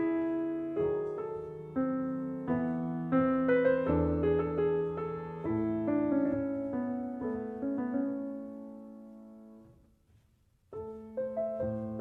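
Background piano music with gently struck, slowly decaying notes. It fades out to near silence about ten seconds in, then starts again after a short pause.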